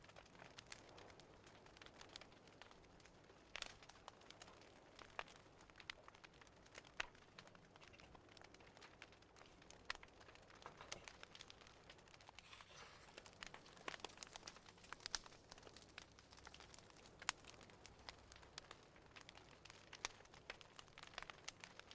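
Wood fire crackling faintly, with scattered sharp pops at irregular intervals over a soft hiss.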